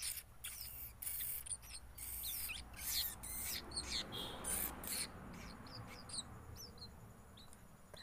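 Sooty-headed bulbul fledglings giving high, rapid begging squeaks while being hand-fed, thinning after about four seconds to scattered short chirps.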